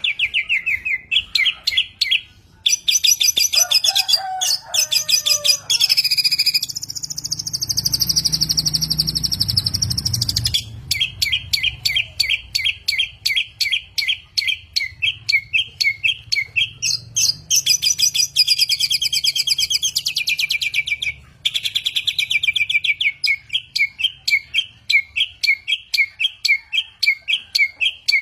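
A songbird singing a long run of rapid, evenly repeated chirping notes, several a second, with a few short pauses and a long, sustained buzzy trill about a third of the way in.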